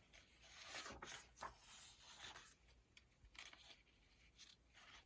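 Near silence with faint, scattered rustles and scrapes.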